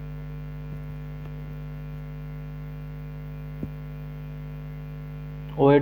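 Steady electrical mains hum, a low buzz with many evenly spaced overtones, with a faint click about three and a half seconds in.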